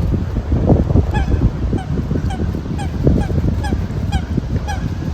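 Canada geese honking: a run of short, repeated honks, about two to three a second, starting about a second in, over a steady low rumble.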